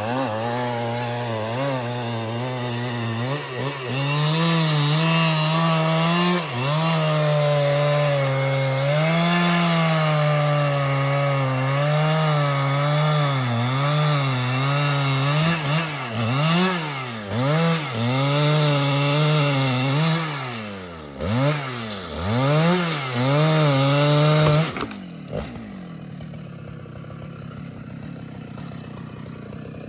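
Husqvarna 395XP two-stroke chainsaw running at high revs, cutting into wood, with a steady engine note for much of the time. Later the revs rise and fall repeatedly, and about 25 seconds in the engine note drops away sharply.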